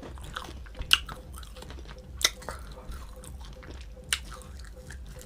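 A person chewing a mouthful of food close to the microphone, with wet mouth sounds and three sharp smacks, the loudest a little past two seconds in.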